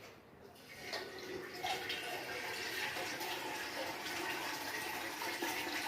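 Water running steadily in a newly fitted toilet. It builds up about a second in, then holds steady.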